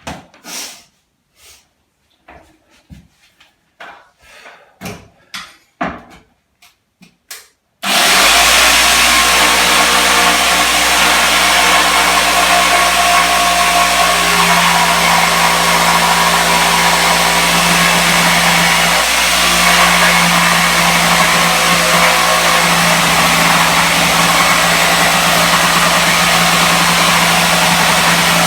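A few light knocks and clicks of handling, then about eight seconds in a power tool motor starts abruptly and runs loud and steady.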